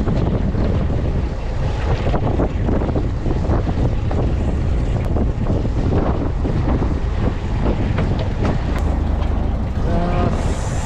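Wind buffeting the microphone on a fishing boat at sea, over a steady low rumble and irregular splashes of water.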